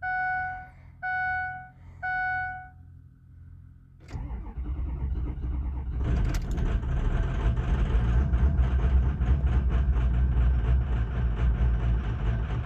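A truck's warning chime beeps three times, about once a second. About four seconds in, a 6.0 Power Stroke V8 turbodiesel cranks, fires and settles into a loud, steady idle. This is a cold start after three days sitting below freezing.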